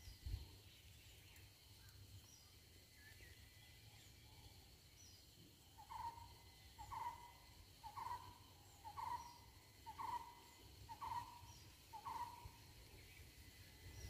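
A bird calling a series of seven short, repeated notes, about one a second, starting about six seconds in, against a faint steady background.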